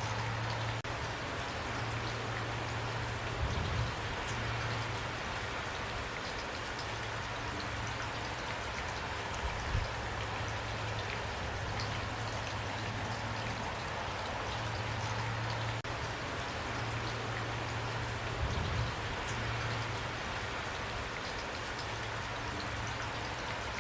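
Steady rain falling, with dense pattering drops and a few soft low thuds.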